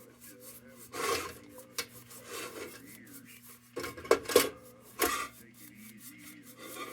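Rubbing and scraping on the tin body of an old Dietz Blizzard lantern during cleaning, in a few irregular strokes. A faint steady hum runs underneath.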